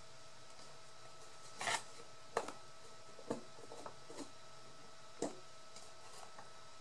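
Paper and card being handled during papercraft assembly: a brief rustle, then a few light clicks and taps spaced about a second apart.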